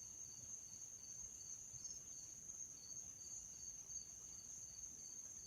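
Faint insects trilling: one steady high trill with a second insect chirping in a regular beat about two to three times a second.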